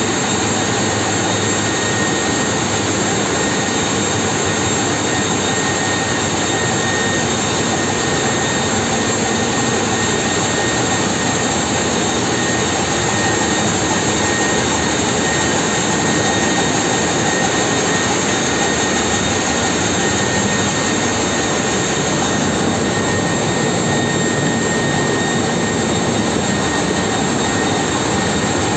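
Ship's engine-room machinery running: a loud, steady noise with a few thin, high whining tones held through it.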